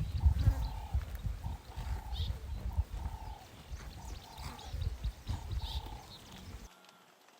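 Animal calls repeated about twice a second over a loud low rumble, ending abruptly near the end.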